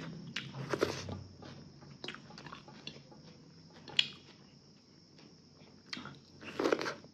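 A person chewing and biting food close to the microphone: scattered wet mouth clicks, a sharp click about four seconds in and a longer burst of chewing noise near the end.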